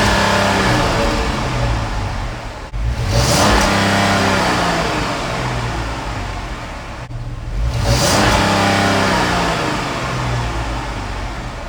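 2010 Dodge Charger 3.5-litre V6 revved through its stock exhaust: three quick blips about four seconds apart. Each one rises sharply and then falls back toward idle.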